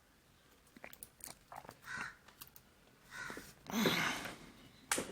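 Small clicks, taps and rustling of TV parts being handled on the bench, with a louder rustle about four seconds in and a sharp click near the end.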